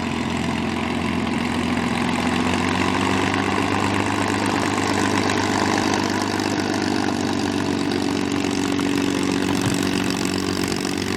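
Propeller aircraft engine running steadily, its pitch slowly rising over the first half and then holding.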